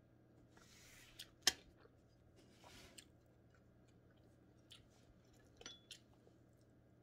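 Close-miked mouth sounds of someone eating crispy fried fish: soft chewing with a few scattered crunches and clicks, the sharpest about a second and a half in.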